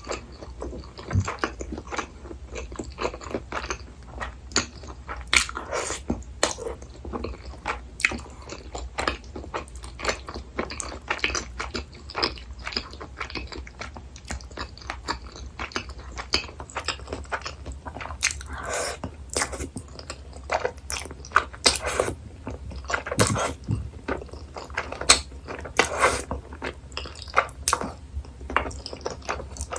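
Close-miked eating sounds: a person chewing and biting food, with frequent irregular wet smacks and clicks of the mouth.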